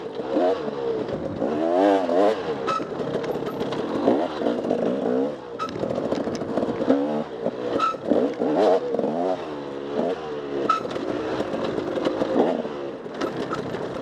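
Enduro dirt bike engine revving up and down over and over, its pitch rising and falling every second or so as the throttle is worked, with scattered sharp knocks and clatter.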